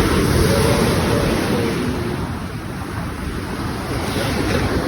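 Ocean surf washing in, with wind buffeting the microphone: a steady, loud rushing noise.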